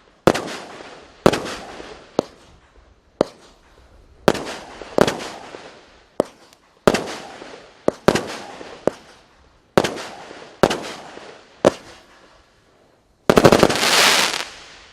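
A 36-shot, 0.8-inch firework cake firing shot after shot, roughly one a second, each bang trailing off. About 13 seconds in, a loud, dense run of crackling lasts a second or so and then fades out.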